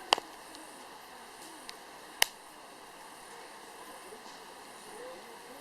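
Firewood burning in a fire pit stand, crackling over a low steady hiss, with a few sharp pops: a quick double pop at the start and the loudest snap about two seconds in.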